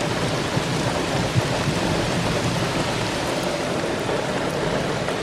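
Heavy rain pouring down steadily in a sudden downpour, a dense even hiss with no let-up.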